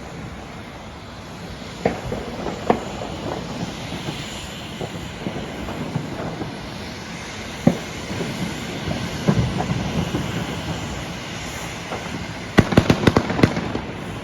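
New Year's Eve fireworks and firecrackers going off around the neighbourhood: scattered bangs over a steady rumble. About twelve and a half seconds in comes a quick run of loud cracks, like a string of firecrackers.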